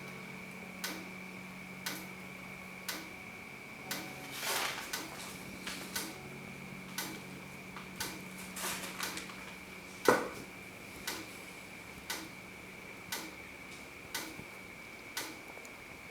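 Clock-like ticking, about one tick a second, over a faint steady hum and a thin high tone, with a louder knock about ten seconds in.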